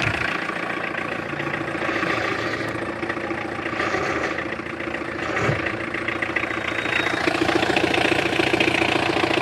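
Tata Indica car engine idling steadily, with a constant hum.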